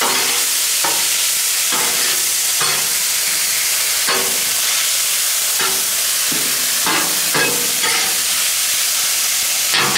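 Tater tots, peppers and onions frying on a hot oiled flat-top griddle: a steady sizzle, with a metal spatula scraping across the griddle and turning the food about once a second.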